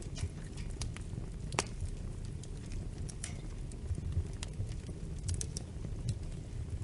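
Fireplace fire crackling: irregular sharp pops and snaps, the loudest about a second and a half in, over a steady low rumble of the flames.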